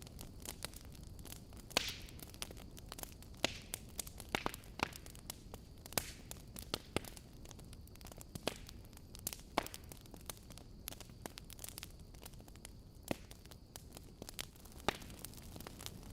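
Campfire crackling: irregular sharp pops and snaps, a few of them louder, over a steady low hiss of the fire.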